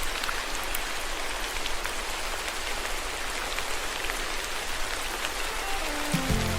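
Steady rainfall, an even hiss with scattered individual drops ticking. Music comes in near the end.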